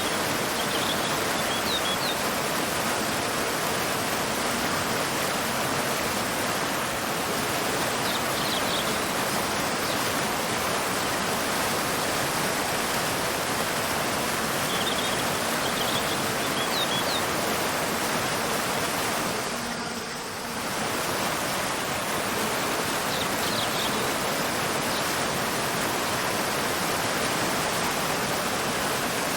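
Waterfall pouring into a river: a steady rushing of water, with short high bird chirps every several seconds. The water briefly dips in loudness about twenty seconds in.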